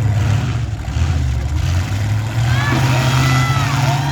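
Demolition derby cars' engines running and revving: a loud low drone that shifts in pitch, with high curving tones rising and falling above it from about halfway.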